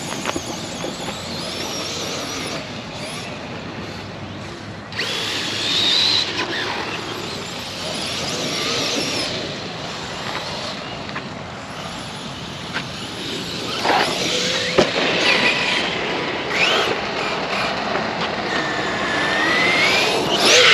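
Electric RC car driving hard, its brushless motor whining up and down in pitch with the throttle over steady tyre and ground noise, with a few sharp knocks and a long rising whine near the end as it speeds up.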